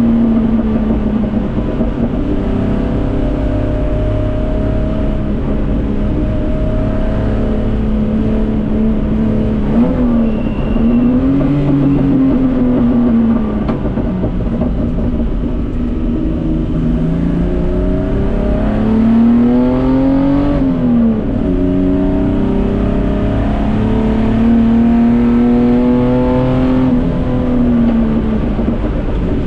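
Datsun 240K Group C race car's straight-six engine running hard under load. Its pitch climbs through each gear, with three sharp drops at upshifts: about ten seconds in, about twenty seconds in, and near the end.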